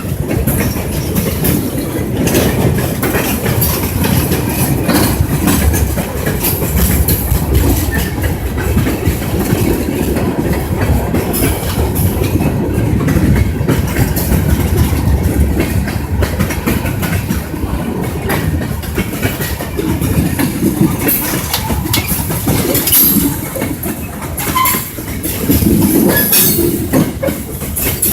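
Train running along the track: a steady low rumble with frequent clicks and clatter from the wheels.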